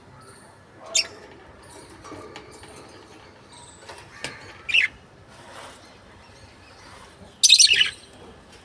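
Pet lovebirds calling: a short shrill chirp about a second in, another about halfway through, and a louder harsh screech of rapid notes near the end.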